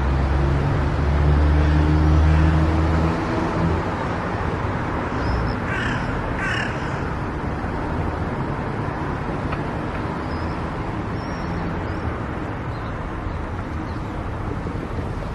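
Steady road and engine noise of a car driving on a highway, with a louder low drone in the first three seconds. Two crow caws come in quick succession about six seconds in.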